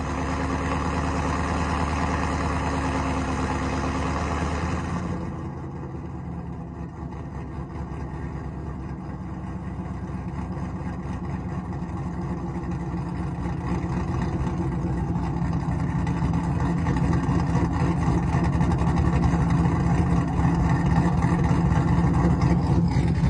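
Supercharged, cammed 2016 Chevrolet Silverado 5.3 L V8 with long-tube headers and Corsa exhaust idling with an uneven, loping beat after a cold start. About five seconds in the sound drops and dulls, then grows steadily louder.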